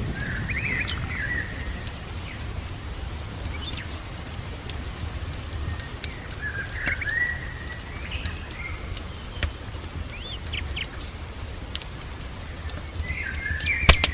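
Small birds chirping in short bursts of calls, three times across the stretch, with a thin high whistle between. Under them is a steady low rumble of rain with scattered sharp clicks and crackles. The loudest click comes near the end.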